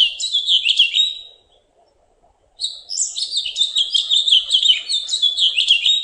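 House finch singing: long warbled phrases of quick chirpy notes rising and falling in a complex, unrepeating melody. The first phrase ends about a second in, and another begins after a short pause.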